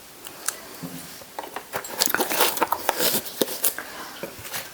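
Quick run of short wet clicks and squishes as sauce goes onto boiled baby corn pieces in a bowl, sparse at first and busy from about halfway through.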